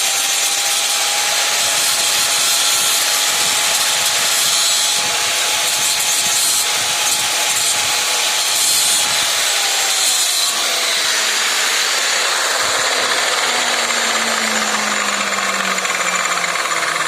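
Angle grinder running against steel, cleaning slag and impurities off the workpiece between welding passes. A steady motor whine under a hissing grinding noise; the whine drops in pitch about ten seconds in and keeps sliding lower near the end.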